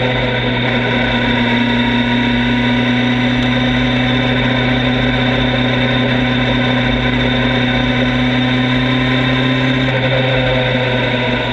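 Motorcycle engine running at a steady cruising speed with wind noise, its pitch holding nearly constant and dipping slightly about ten seconds in.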